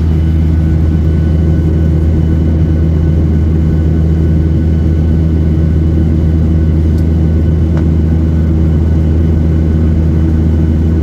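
Steady drone of a Boeing 737-800 in flight, heard inside the passenger cabin: the hum of its CFM56-7B turbofan engines mixed with airflow noise, with a deep, even hum and a few faint steady tones above it.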